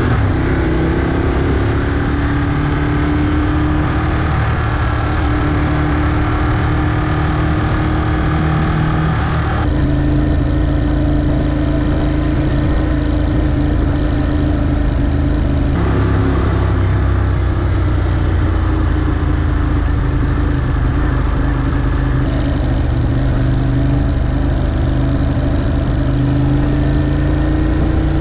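Ducati Monster 821's L-twin engine with an Akrapovic exhaust running as the bike rides at steady low speed, its pitch rising a little at the start, with road and wind noise. The sound jumps abruptly three times.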